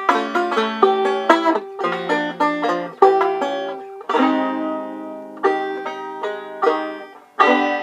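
A newly restrung and freshly tuned early-1970s Contessa banjo being played: a quick run of plucked notes, then chords struck four times and left to ring.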